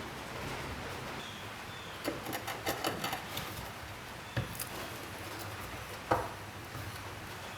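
Light clicks and taps in a quick cluster, then two separate knocks, the second one the loudest: hard parts being handled and set down on a work surface.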